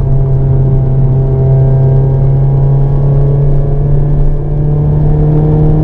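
Hyundai Avante N's turbocharged four-cylinder engine pulling hard under full throttle in one gear, heard from inside the cabin. Its steady drone climbs slowly in pitch as the revs build.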